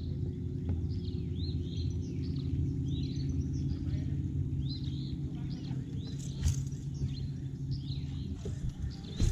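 Small birds chirping over and over, short rising chirps about twice a second, over a steady low hum. A sharp knock comes about six seconds in.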